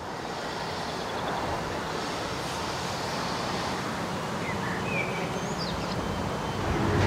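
Re-engined MÁV class 418 diesel locomotive approaching in the distance, its engine a low steady drone that slowly grows louder. Birds chirp a few times about halfway through.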